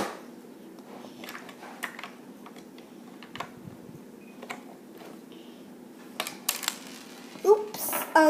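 Light plastic clicks and taps of Lego pieces and minifigures being handled, scattered and faint, with a few louder clicks about six seconds in.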